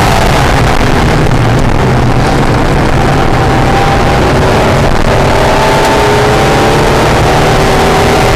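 Acura NSX's V6 engine under track driving, over heavy wind and road noise. The engine pitch drops at the start as the car slows, then climbs steadily from about halfway as it accelerates again.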